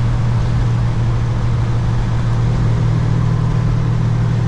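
Kenworth W900 semi truck driving, heard from inside the cab: a steady, unchanging low drone of the diesel engine and road noise.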